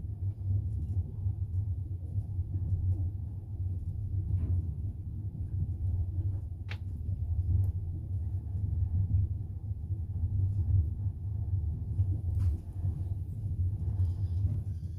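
Steady low rumble of a moving double-decker passenger train, heard inside the carriage as its wheels run over the rails. There is a sharp click about seven seconds in.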